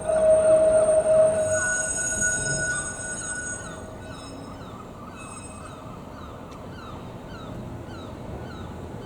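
Heritage tram's steel wheels squealing on the rails: several high, ringing tones, loudest in the first second and dying away after about three and a half seconds. Rumble goes on underneath.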